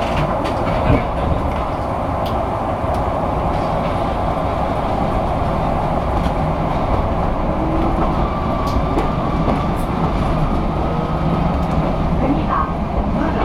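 Yoro Railway 610 series electric train pulling away and gathering speed, heard from inside the cab: a steady rumble of motors and wheels on the rails, with a few sharp clicks.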